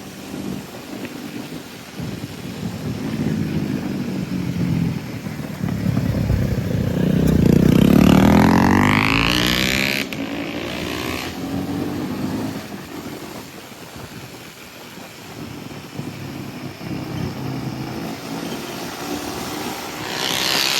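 Motorcycle engine running through an aftermarket decat and slip-on exhaust, swelling to a loud rise in pitch that peaks about eight seconds in and cuts off suddenly at about ten seconds, then running on more quietly.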